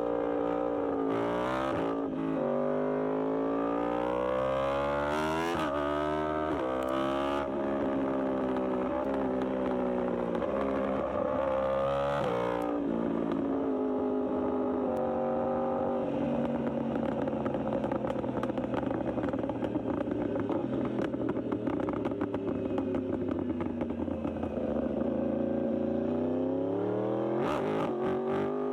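Yamaha R1 sport bike's inline-four engine revved through its exhaust: several quick blips that rise and fall in pitch, then a longer stretch of steadier running at raised revs, and one more rev near the end.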